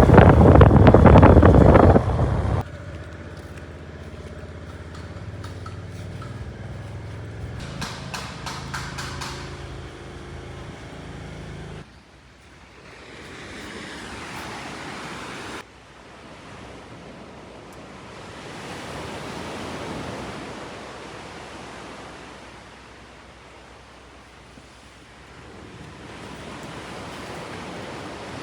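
A run of outdoor ambient clips. First, wind rushing hard on the microphone; after a cut, a quieter steady low hum with a few clicks; then waves washing in, swelling and fading slowly.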